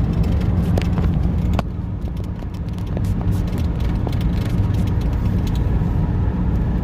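Ram 5500's 6.7 L Cummins turbo-diesel holding the truck back on a downhill grade with the exhaust brake on: a steady low drone under road and tyre noise, heard inside the cab. A few light clicks come through, and the sound eases for a second or so about one and a half seconds in.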